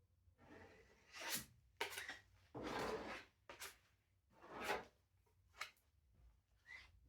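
Filler spreader scraping freshly mixed body filler in a series of short strokes, each lasting a fraction of a second.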